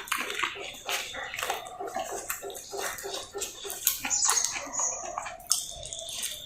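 Close-miked chewing and wet mouth sounds of someone eating roti with potato sabzi: a steady run of soft smacks and clicks.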